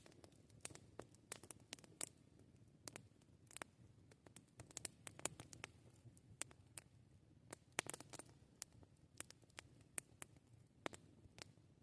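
Wood campfire crackling: quiet, irregular sharp pops and snaps, sometimes several close together, over a faint low background.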